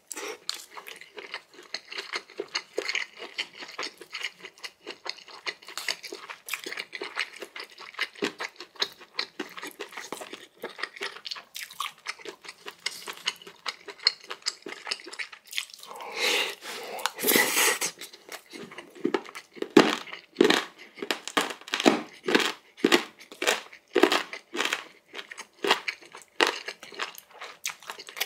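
Close-miked eating: a person chewing mouthfuls of food with a steady run of wet clicks and smacks. A longer, louder noisy stretch comes about sixteen seconds in and lasts a couple of seconds.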